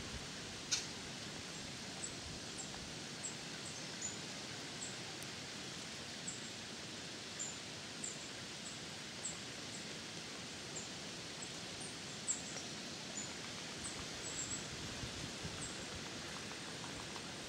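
Quiet woodland ambience: a steady hiss with short, high bird chips repeating every second or so, and a sharp click about a second in and again near twelve seconds.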